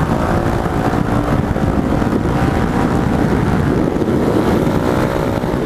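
Motorcycle engine running under way in a tunnel, a steady loud exhaust note with wind buffeting the microphone.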